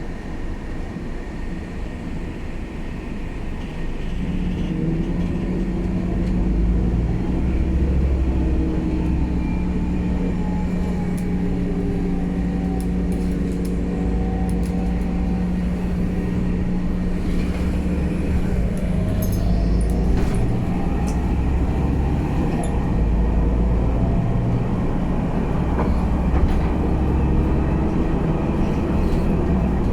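Scania K320UA bus running, its engine pulling harder from about four seconds in as the bus gets under way, with a steady low drone and a drivetrain whine that slides down and back up in pitch.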